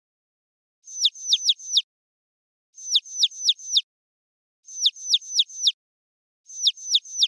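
High bird-like chirping: groups of four or five quick downward-sweeping chirps, one group about every two seconds, with nothing else audible between them.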